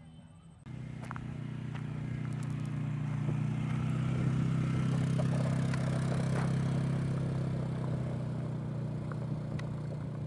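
A motorcycle engine running with a steady low note, starting suddenly about a second in, growing louder over the next few seconds and then easing slightly.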